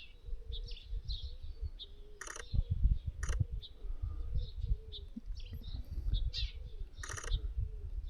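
Small birds chirping with short, repeated calls, and a camera shutter firing in quick bursts of clicks three times, about two, three and seven seconds in. Low rumble underneath.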